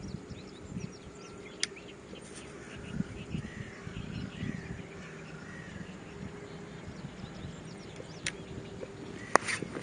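Outdoor ambience with birds calling: a run of short arched calls in the middle, with faint high chirps before them. Sharp clicks come near the start and twice near the end.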